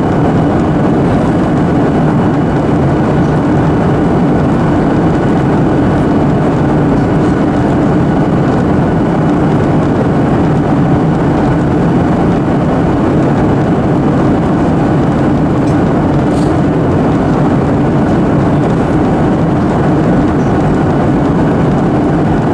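Steady cabin noise of a Boeing 737-800 airliner in flight: the even drone of its CFM56 jet engines and rushing airflow, heard from a passenger seat, with faint steady whines above it.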